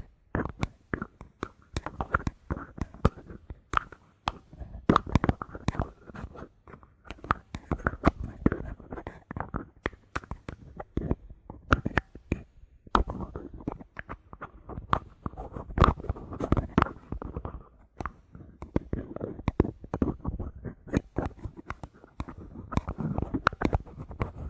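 Bottle caps being handled close to the microphone: a dense, irregular run of sharp clicks, taps and scratches.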